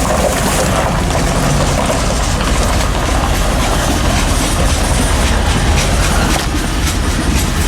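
Norfolk Southern freight train of tank cars rolling past, a loud steady rumble with wheels clicking rapidly over the rail joints.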